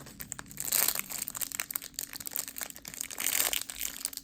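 Crinkling and crackling of plastic packaging as a mini bread-loaf foam squishy is handled and squeezed, coming in waves, loudest about a second in and again past three seconds.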